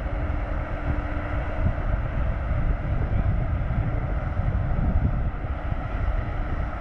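Wind buffeting the microphone over the steady hum of a ship's engine.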